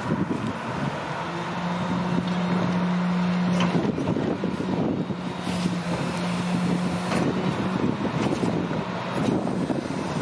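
International garbage truck with a McNeilus compactor body running, with a steady hum setting in about a second in and scattered clanks and knocks.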